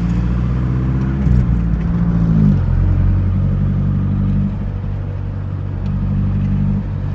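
Car engine and road noise heard from inside the cabin while driving, a steady low drone that drops in pitch about two and a half seconds in.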